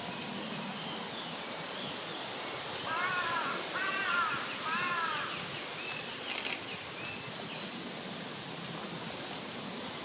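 A bird calling three times, about a second apart, a few seconds in, each call an arched note with overtones over a steady woodland background, with fainter high chirps and a brief crackle near the middle.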